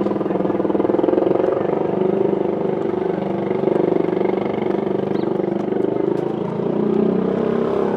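A motor vehicle's engine running close by, a steady low drone.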